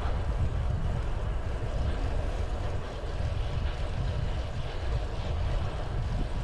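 Wind buffeting the microphone of a riding cyclist's camera, a steady low rumble mixed with road noise.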